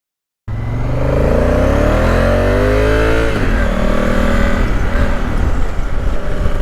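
Honda Africa Twin's parallel-twin engine accelerating, its pitch rising steadily, then dropping sharply about three seconds in as it shifts up a gear and pulling on more evenly, with wind rush over the microphone.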